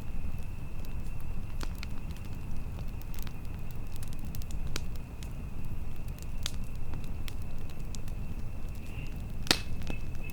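Campfire crackling: scattered sharp pops over a steady low rumble, the loudest pop about nine and a half seconds in. A faint steady high tone runs beneath.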